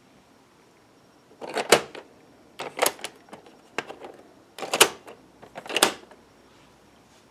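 Hard plastic clicks and clatters from a Sesame Street pop-up toy being handled, in four main bursts about a second apart with smaller clicks between.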